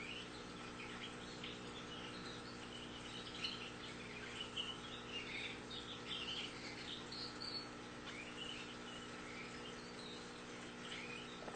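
Canaries chirping: faint, quick, high chirps in scattered clusters, busiest in the middle, over a steady low hum.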